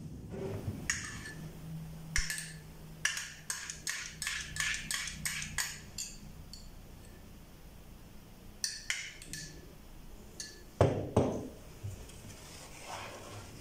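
Small hard objects clinking and tapping as they are handled on a work surface: a quick run of about ten light clicks, then a few more and a louder knock near the end.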